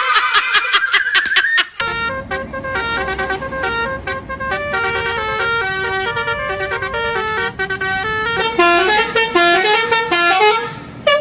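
Multi-tone telolet bus horn playing a tune in quick stepped notes over a low engine rumble, starting about two seconds in after a short warbling sound.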